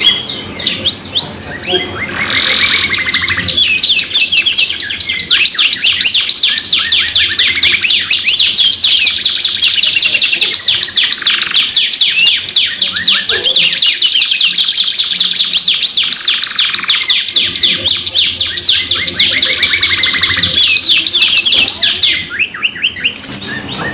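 Domestic canaries singing long, continuous songs of fast rolling trills and chirps, the high notes repeating many times a second with barely a break; the song eases briefly near the end.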